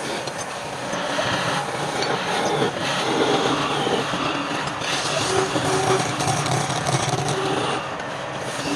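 Wood lathe running, with a turning tool scraping and cutting the spinning palm wood; a steady motor hum under a rough, changing scraping noise.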